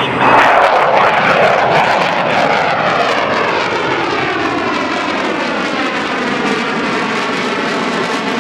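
McDonnell Douglas F-4 Phantom II twin-engine jet making a low pass, its jet engines loudest within the first second, then a steady, slowly easing jet noise with a sweeping hiss as it flies on.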